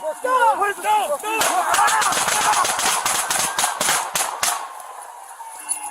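Shouting voices, then a rapid volley of many gunshots lasting about three seconds as deputies open fire on an armed suspect, heard through a body-worn camera.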